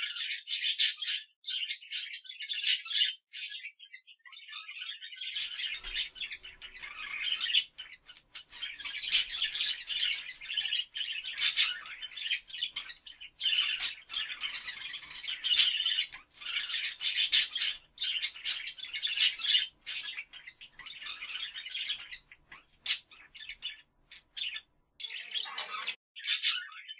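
Birds chirping and squawking: a dense string of short, high calls with only brief pauses.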